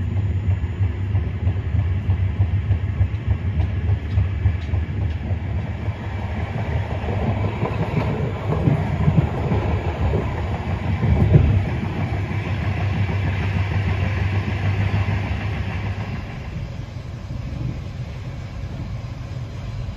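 Passenger train running on the rails with a steady low rumble, its wheels clattering irregularly over rail joints and points a third of the way in, loudest just past the middle. The sound then drops to a quieter, steadier rumble.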